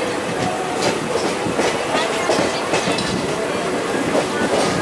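Indian Railways passenger coach of the Rajendra Nagar Patna–Mumbai LTT Janta Express running through a station. A steady rolling rumble and rush of air, with the wheels clacking irregularly over rail joints and points, heard from the coach's open doorway.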